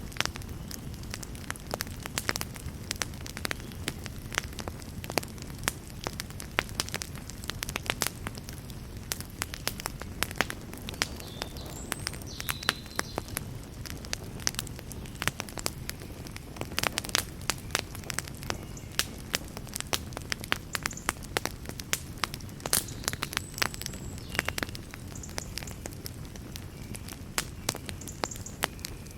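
Wood fire burning in a fireplace: a steady low rumble of flames under frequent, irregular sharp pops and crackles from the burning logs, with a few faint brief hisses.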